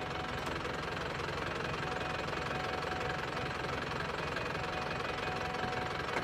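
A dense, steady rustling and pattering of a mass of mice scurrying over one another during a mouse plague.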